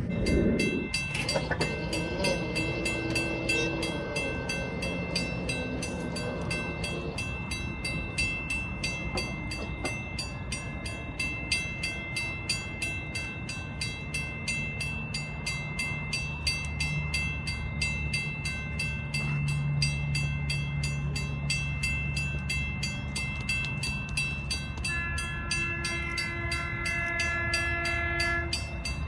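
Diesel train passing, its engine humming steadily with rail noise, and the horn blowing again for a few seconds near the end.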